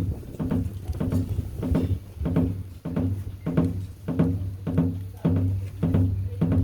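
Janggu (Korean hourglass drum) played in a steady, even beat of nearly two strikes a second, each stroke ringing low.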